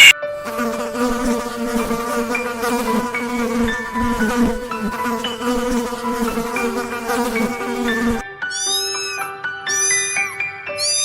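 An insect buzzing steadily for about eight seconds, then cutting off abruptly. Near the end a cat mews three times, in high calls that arch up and down.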